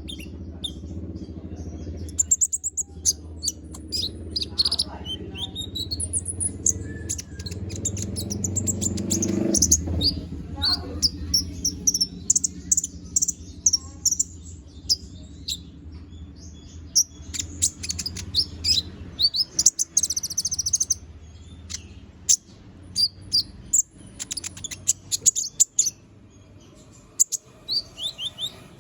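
A konin (kolibri ninja), a small sunbird, singing busily in a long run of rapid, high, thin chirps and trills. A steady low hum sits underneath.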